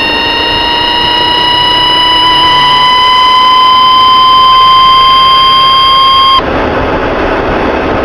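Loud whine from a VW Touareg's drivetrain, slowly rising in pitch as the car speeds up; the owner suspects the transfer case. The whine cuts off suddenly about six seconds in, leaving a steady road rush.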